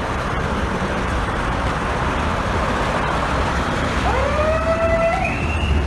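Steady street and engine noise, then about four seconds in a police car siren starts, sweeping up in pitch, holding, and rising again near the end.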